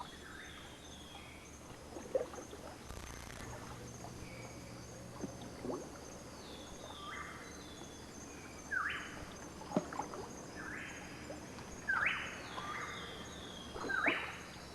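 Tropical swamp-forest ambience: a steady high insect drone with short repeated animal calls that come more often in the second half, and a few soft low knocks.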